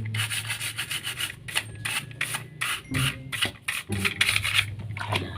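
Stiff brush scrubbing a plastic toy in quick back-and-forth strokes, several a second, with a low hum coming and going underneath.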